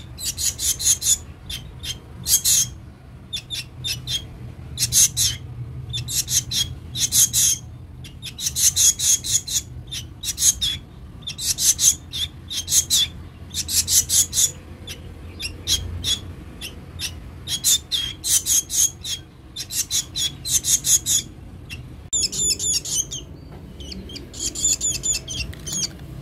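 A black bird calling in repeated bursts of rapid, raspy high-pitched notes, every second or two: begging calls of a hungry bird.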